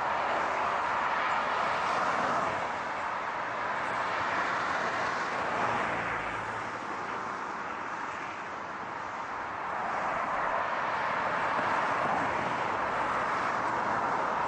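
Continuous hiss of car road and tyre noise, swelling and easing slowly and dipping a little about eight to nine seconds in.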